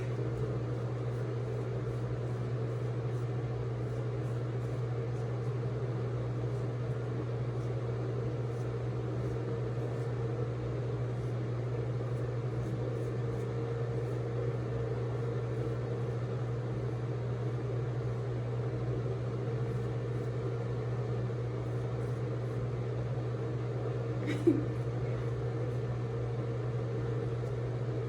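A steady low electrical hum, like a small appliance or motor running, unchanging throughout, with one brief faint sound about 24 seconds in.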